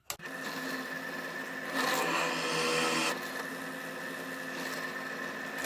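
Electric drill starting up and running steadily, its bit drilling into the cut end of a steel railroad spike. About two seconds in it gets louder for about a second as the bit bites into the steel.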